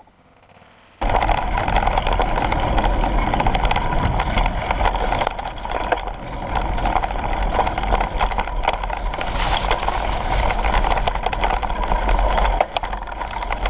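Bicycle ride on a rough trail: wind buffeting the microphone with many quick rattles and clicks from the bike over bumps, starting abruptly about a second in.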